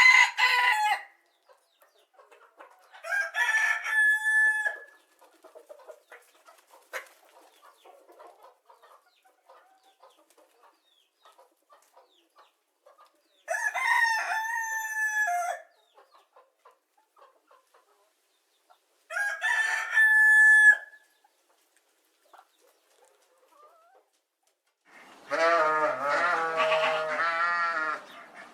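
A rooster crowing repeatedly: one crow ending right at the start, then three more long crows spread out with pauses between them. Near the end a lower, quavering animal call takes over.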